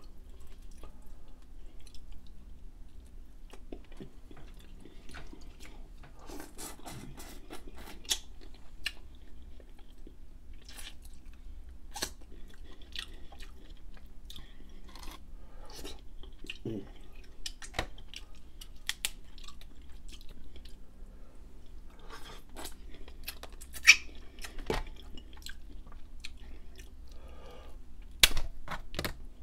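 Close-miked chewing of crab meat, with scattered sharp clicks and cracks as crab-leg shells are picked apart by hand. One louder crack comes about three-quarters of the way through, and a few more near the end.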